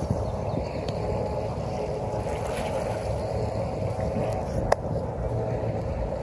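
Steady rushing roar of the Niagara River rapids, with a single sharp click about three-quarters of the way through.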